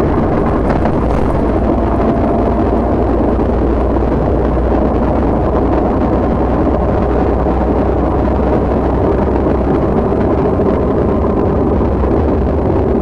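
Inside the cabin of a MAZ-107.466 city bus under way: the Mercedes-Benz OM 906LA six-cylinder turbodiesel runs steadily under a continuous haze of road and tyre noise, with no marked rise or fall in level.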